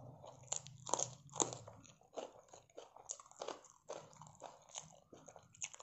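Close-miked eating sounds: a string of crisp crunches and wet chewing from a mouthful of food, the loudest crunches about a second in.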